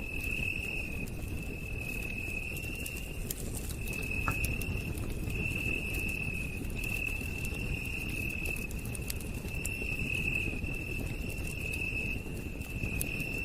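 Night insects trilling, a high steady buzz that breaks off briefly every second or so, with scattered faint crackles of a campfire over a low steady background noise.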